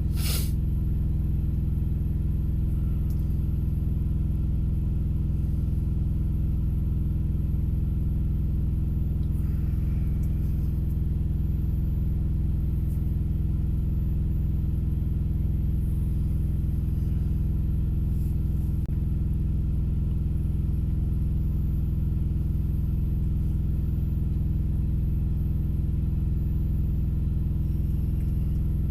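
Vehicle engine idling, a steady low rumble heard from inside the cab, with a brief click right at the start.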